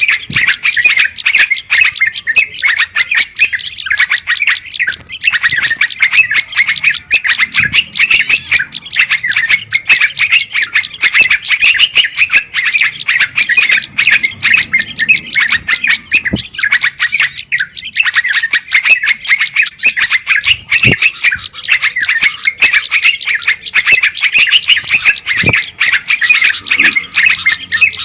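Dense, unbroken chatter of small songbirds making rapid, excited calls, many notes a second: a noisy bird-lure recording.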